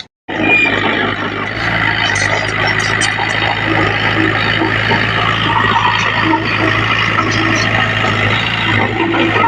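Heavy diesel engine of earthmoving machinery running steadily with a constant low drone and mechanical clatter. It starts abruptly just after a brief cut.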